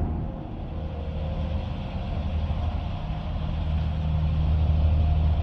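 Steady low rumble of a truck engine, swelling slightly over the last couple of seconds.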